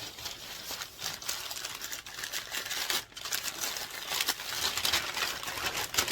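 Wrapping being crinkled and crumpled continuously as a wrapped piece of glassware is unwrapped by hand.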